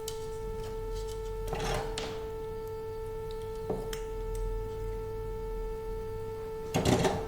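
A steady, even-pitched electrical whine with overtones, joined by a short rustle about one and a half seconds in and a louder clatter of handling near the end while wires are soldered onto a stabilizer control board.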